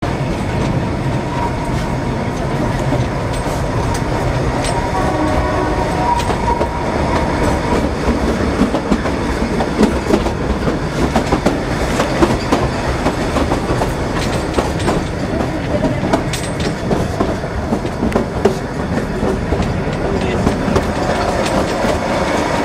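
Carriage of the Kalka–Shimla narrow-gauge toy train running, heard from inside: a steady rumble with wheels clattering over the rail joints, scattered sharp clicks, and a thin whine that comes in for a few seconds at a time.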